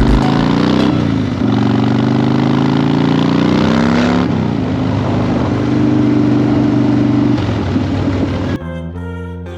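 Motorcycle engine and exhaust accelerating through the gears: the pitch climbs, dips at a gear change about a second in, climbs again, dips at another shift about four seconds in, then holds steady at cruising speed. Guitar music cuts in near the end.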